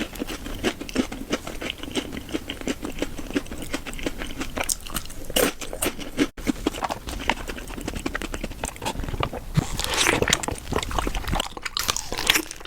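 Close-miked chewing of chewy boba, with dense wet clicking and sticky mouth sounds. The sound drops out for an instant about halfway through.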